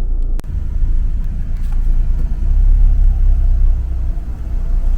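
Low, steady rumble of a VW California campervan heard from inside the cabin as it rolls up to a barrier, with one sharp click about half a second in.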